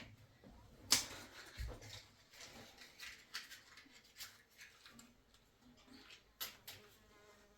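A series of irregular clicks and knocks, the sharpest about a second in and another pair near the end.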